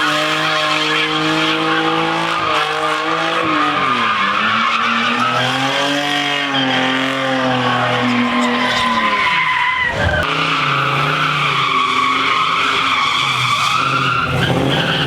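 A car engine held at high revs during a burnout, with tyres squealing continuously. The revs drop and climb back up twice.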